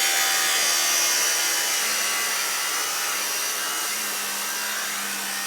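Power saw running steadily, a loud high hiss with a steady low whine underneath.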